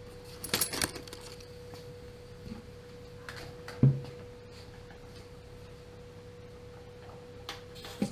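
A faint steady hum on one pitch, with a few light clicks and one sharp knock about four seconds in, typical of tools or parts being handled on a gas water heater.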